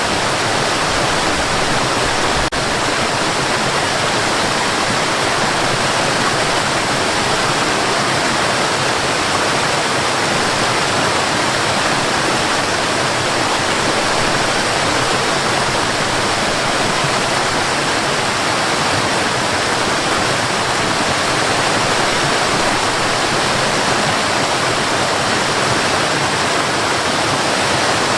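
Waterfall: water falling and rushing in a loud, steady, even roar.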